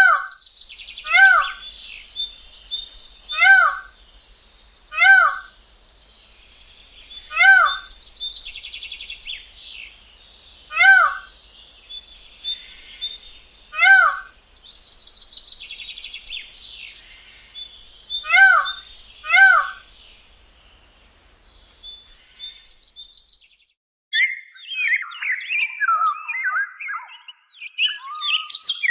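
Birds calling: a loud, short call repeated every second or two over steady high twittering of many small birds. The repeated call stops about three quarters of the way in, and a busier, lower chattering takes over.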